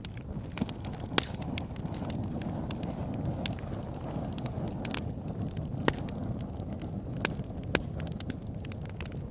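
Wood fire in a fireplace burning steadily: a low rumble of flames with irregular sharp crackles and pops from the logs, a few of them louder, about a second in and in the second half.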